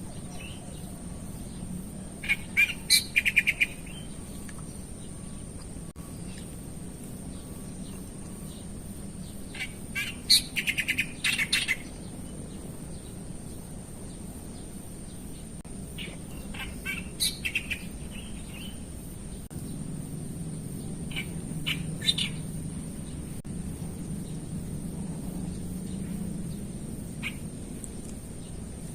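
Wild birds calling in short bouts of quick, high chirps, several times over, with pauses between. A steady high-pitched whine and a low hum run underneath.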